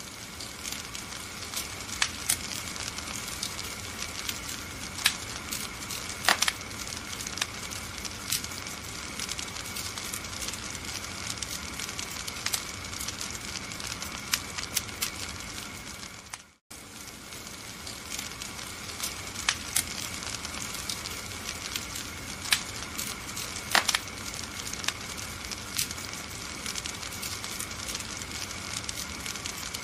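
Wood fire crackling, with irregular sharp pops over a steady hiss. The sound cuts out briefly about two-thirds of the way through, then resumes.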